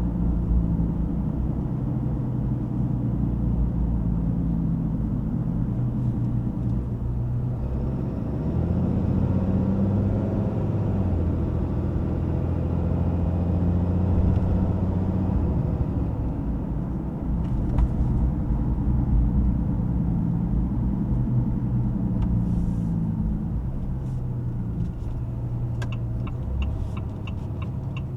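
Ram 2500's high-output Cummins turbo-diesel running while driving, with the engine note rising and falling through gear changes over a low road rumble. A regular ticking, about two a second, starts near the end.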